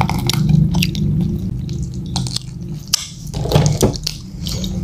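Close-up eating sounds of fried chicken: tearing the meat with the fingers, then wet, squishy biting and chewing, with many short crackling clicks and one sharper click about three seconds in.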